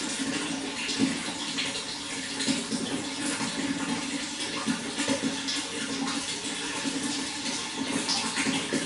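Running water, splashing and trickling steadily with small irregular splashes throughout.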